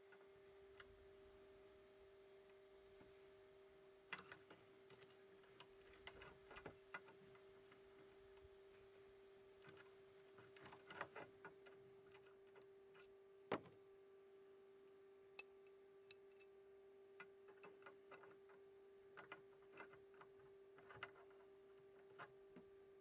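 Near silence: scattered faint clicks and light knocks over a steady faint hum, with a few sharper knocks around the middle.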